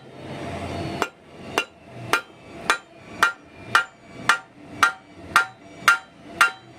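Hammer striking a metal part in a steady rhythm, about two blows a second, each blow ringing briefly.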